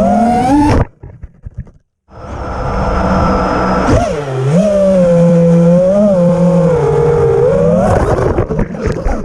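FPV racing quadcopter's four brushless motors (Karearea TOA 2306 2850KV) whining as the throttle moves. The whine cuts out abruptly about a second in, leaving a few crackles and a brief silence. It then spools back up, wavering in pitch with a dip about four seconds in, and fades out near the end.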